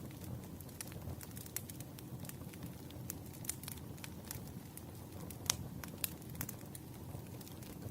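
Wood fire crackling: a low, steady rumble of burning logs with frequent irregular snaps and pops, the sharpest about five and a half seconds in.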